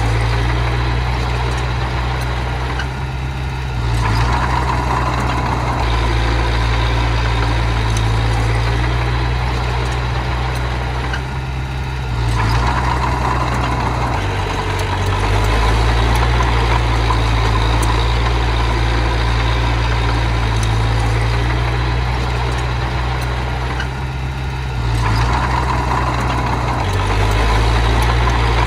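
Small bulldozer's engine running steadily. Three times, about every ten seconds, it eases off briefly and then picks up again, as it takes up load on each push.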